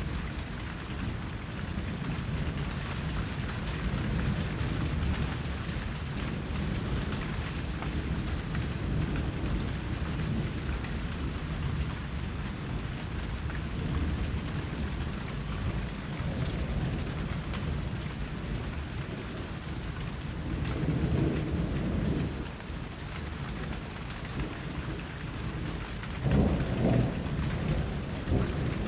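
Steady rain falling, with a low rumble underneath that swells twice, about three quarters of the way through and again near the end.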